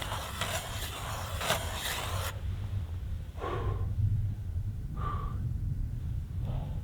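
Hand ice auger being cranked, its blades rasping and grinding through thick ice for about two seconds, then stopping. Two short, heavy breaths follow from the man cranking it, over a low wind rumble on the microphone.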